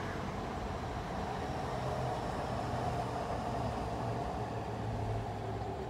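Steady rumble and hum of a train, with a faint high whine falling slowly in pitch.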